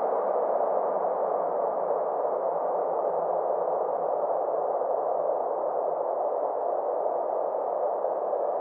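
Steady synthesized space-ambience drone: a soft, even noise wash sitting in the low-middle range with a faint low hum underneath, unchanging throughout.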